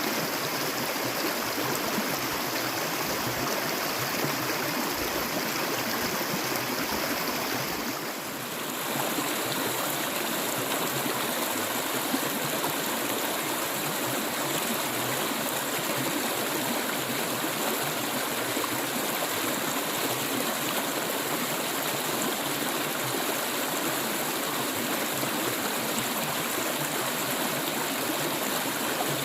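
Clear stream water flowing steadily, with a brief dip in level about eight seconds in.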